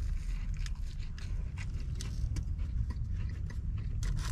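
A person biting into and chewing a buffalo chicken sandwich close to the microphone: a run of small irregular clicks and crunches over a low steady hum.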